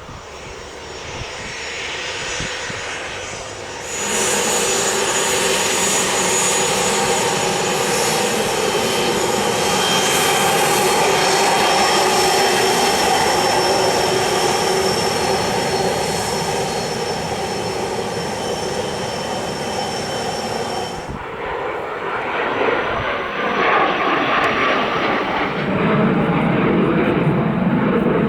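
Business jet's turbofan engines running loud, a steady roar with a high whine. The sound comes in suddenly about four seconds in and drops away abruptly past two-thirds through, followed by a rougher, lower engine rumble that builds near the end.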